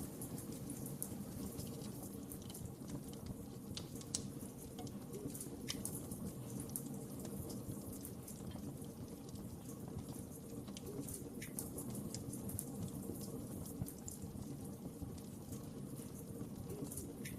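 Wood fire burning steadily, a soft low rumble of flames with irregular crackles and sharp pops from the burning logs.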